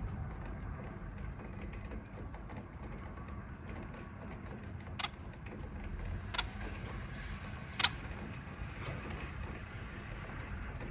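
Steady low rumble of rain-and-thunder ambience, with three short sharp clicks about a second and a half apart in the second half.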